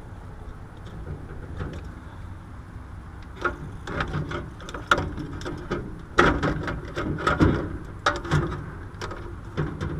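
A run of clicks and knocks, most of them after the first three seconds, as wires and parts are handled at an air conditioner unit's capacitor and hard start kit, over a steady low rumble.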